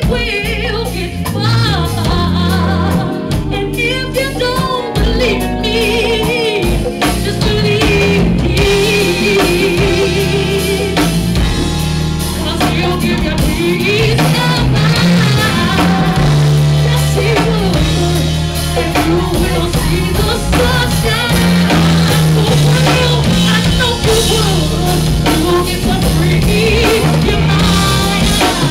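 Live band playing with a singer over bass and drum kit.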